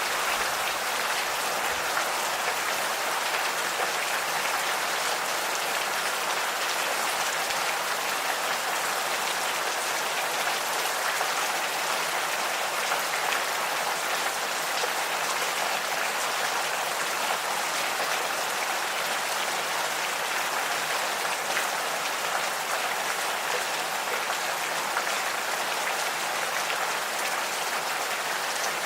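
Steady rain, the patter of many small drops falling on surfaces without a break.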